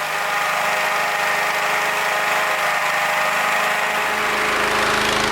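Engine-driven cold-air inflator fan running steadily, blowing cold air into a hot air balloon's envelope before the burners are lit. A deeper low hum fills in about four seconds in.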